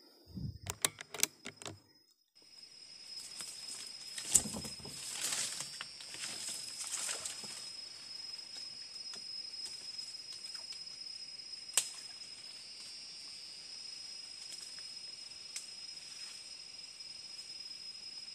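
A few sharp clicks and knocks in the first two seconds. Then a steady high-pitched drone of insects, with rustling steps through undergrowth for a few seconds and a couple of sharp snaps.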